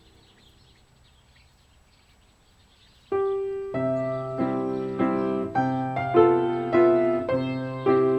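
Faint bird chirps, then about three seconds in a piano starts playing background music: a slow, even melody of struck notes and chords, a little more than one a second.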